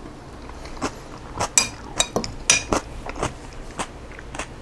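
Close-up eating sounds: a utensil clicking against a dish and mouthfuls of crunchy cabbage-and-chicken salad being chewed, in irregular short crackly bursts.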